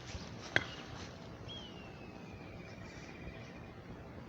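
A sharp click, then one thin high whistle that slides down in pitch and holds for about two seconds, over a steady background hiss.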